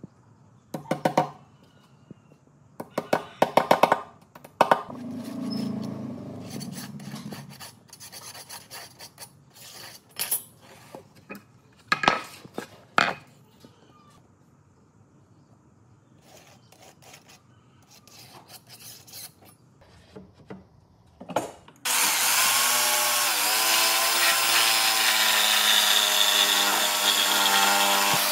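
Scattered knocks and clinks of tools and wood being handled, then about 22 seconds in a woodworking power tool starts abruptly and runs loud and steady, its pitch sagging briefly as it takes the load of the wood.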